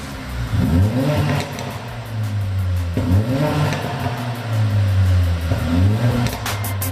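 Mercedes GLA45 AMG's turbocharged four-cylinder engine running through an iPE Innotech valved cat-back exhaust, revving loudly; the engine note climbs three times, about every two and a half seconds.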